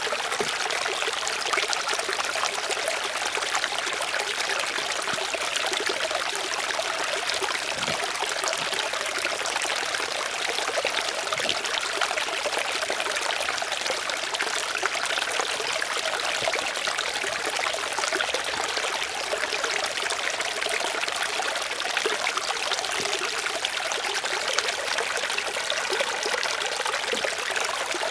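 Steady running water, a trickling flow, with no change in level.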